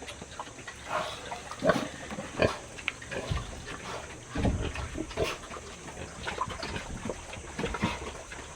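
Pigs grunting, many short calls coming irregularly one after another.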